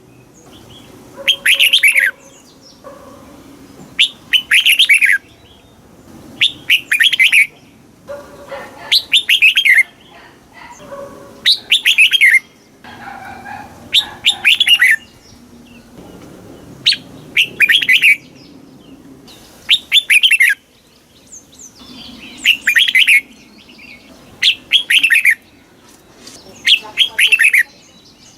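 Red-whiskered bulbul singing: short, loud, bright phrases of quick falling notes, repeated every second or two.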